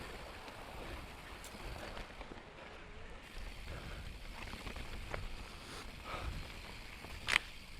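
Mountain e-bike rolling along a dirt trail: a steady hiss of tyre and wind noise with a few light clicks and rattles, and one sharper click near the end.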